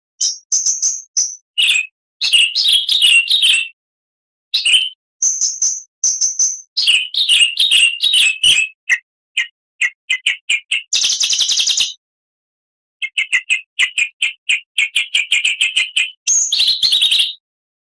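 Oriental magpie-robin (kacer) singing loud, varied phrases of short whistles and rapid trills, broken by abrupt silent gaps. A harsh buzzy burst comes about eleven seconds in, followed by a fast run of repeated notes.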